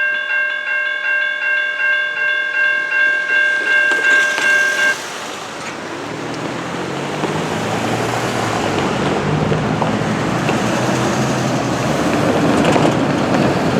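Electronic railroad crossing bell dinging about twice a second, stopping suddenly about five seconds in. A road vehicle's engine and tyre noise then grows louder as traffic moves over the crossing.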